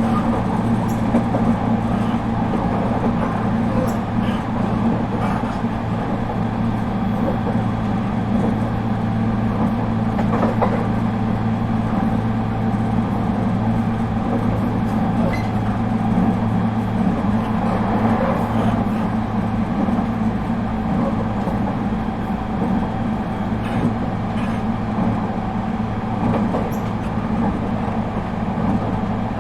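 Interior sound of an ET127 series electric multiple unit, refurbished with Toyo IGBT-VVVF equipment: a steady low hum over even running noise, with no change in pitch.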